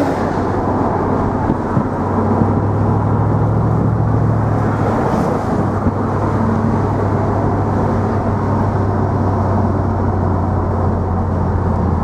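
Mercedes SL55 AMG driving at a steady, even pace: a low, constant hum from its supercharged V8 under light load, mixed with tyre and road noise.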